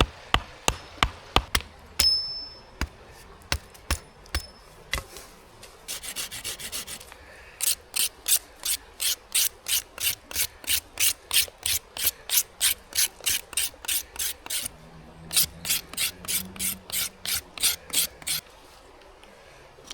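Hand saw cutting through wood in steady back-and-forth strokes, about three a second, with a brief pause before a second run of strokes. A few sharp knocks come in the first two seconds.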